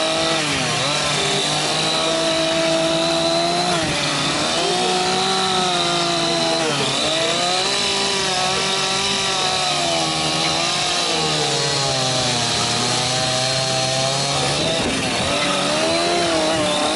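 Chainsaw carving into wood, its engine running loud and steady. The engine note dips and recovers several times as the blade bogs under load in the cut and frees again.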